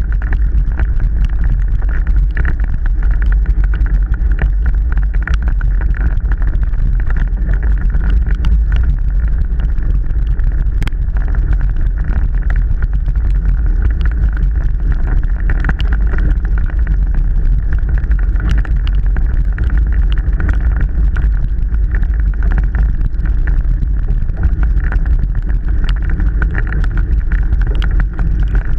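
Mountain bike being ridden on a wet trail: a steady, loud low rumble of wind on the microphone, with many scattered clicks and rattles from the bike.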